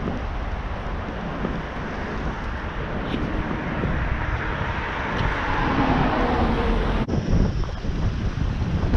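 Strong wind buffeting the microphone, a dense low rumble and rush, swelling a little past the middle, with a brief dropout about seven seconds in.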